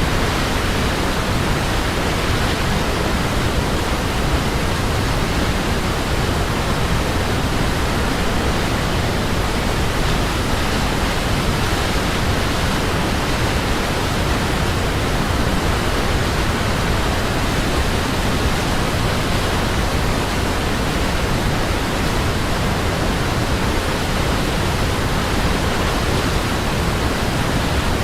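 Waterfall, a steady full rushing of falling water with no breaks or changes.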